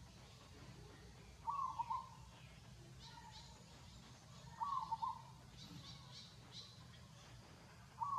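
A bird calling in the background: a short call of about half a second, repeated about every three seconds. Fainter, higher chirps come between the calls.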